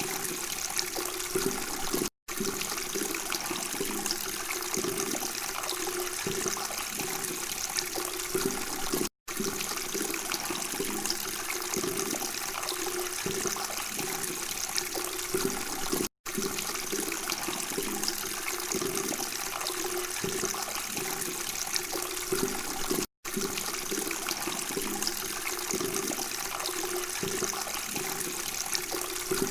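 Water flowing and gurgling steadily, as in a babbling stream or fountain. The sound drops out to silence for an instant about every seven seconds.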